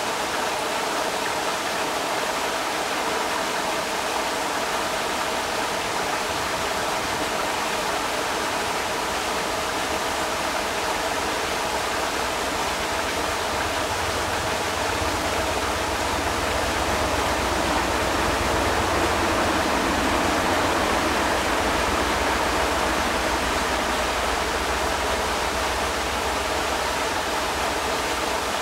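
Rushing creek water, a steady, even rush. About halfway through, a low rumble swells in underneath and fades again near the end.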